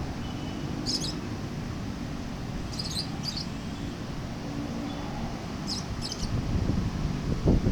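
Short high bird chirps, a few of them in quick pairs, over a steady low outdoor rumble.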